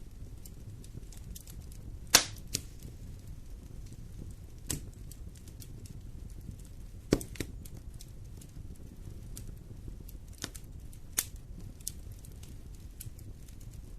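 Wood fire burning in a fireplace with a low steady rumble, crackling and sharp pops of the burning logs; the loudest pops come about two seconds in and about seven seconds in.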